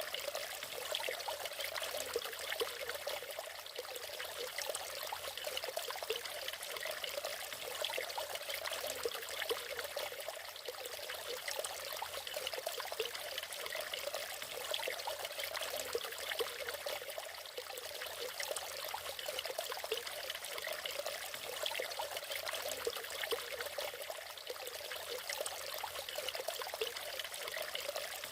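Small natural waterfall: water splashing and trickling steadily, a bright, even rush with little deep rumble.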